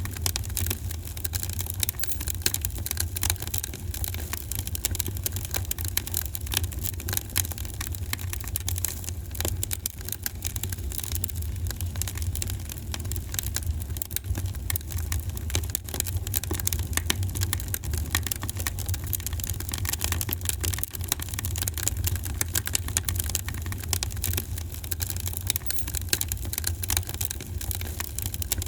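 Wood fire crackling in a fireplace: dense, irregular small snaps and pops over a steady low rumble.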